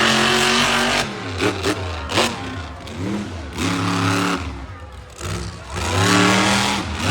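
Monster truck engine revving hard. It lets off about a second in with a few short blips, then revs up again twice.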